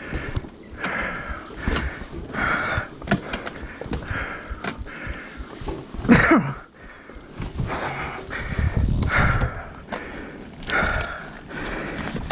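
A person breathing hard close to the microphone, heavy breaths in and out about once a second, with a short voiced grunt about six seconds in.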